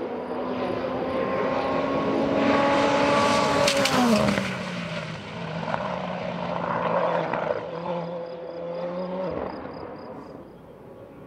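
Race car engine running at high revs as the car passes, loudest about four seconds in, when the note glides down to a lower pitch. It holds the lower note for several seconds, then cuts off and fades away.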